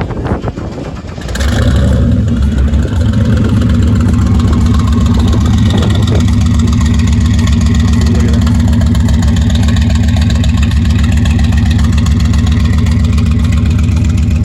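A vehicle engine running steadily at a constant pitch, coming in suddenly about a second in.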